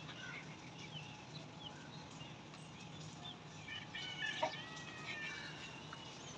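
Birds calling: many short chirps and whistles from several birds, busiest about four seconds in, over a faint low hum.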